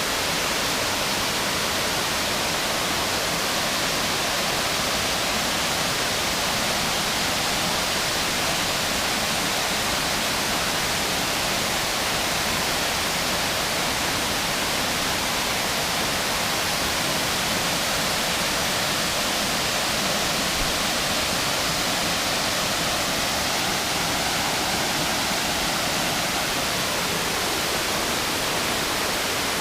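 Waterfall below a dam, water cascading down into a creek: a steady, even rush that does not change.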